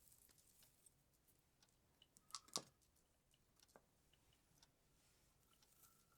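Faint, scattered clicks and light taps of Christmas baubles being handled and hung on a tree, with two sharper clicks about two and a half seconds in.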